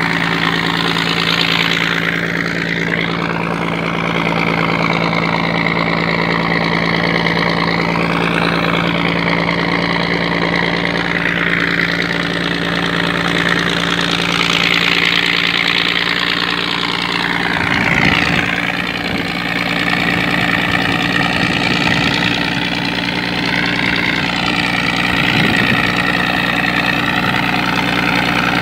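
Scania 113 inline-six diesel engine running steadily on a sand dredge, with a higher whine that wavers up and down in pitch. A few low knocks come through about two-thirds of the way in.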